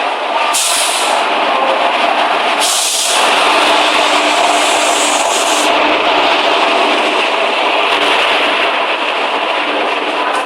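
Coromandel Express passenger train running alongside the station platform, with the steady rumble and rattle of its coaches. Two stretches of high hissing come in over it, one briefly about half a second in and a longer one from about two and a half to five and a half seconds in.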